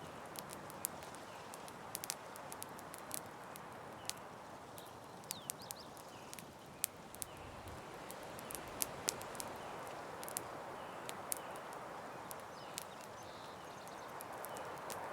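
Campfire crackling: irregular sharp pops and snaps of burning wood over a steady soft hiss.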